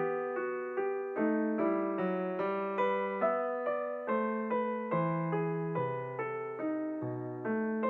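Background music: a slow electric piano or piano melody of evenly spaced notes, about two a second, each one fading after it is struck.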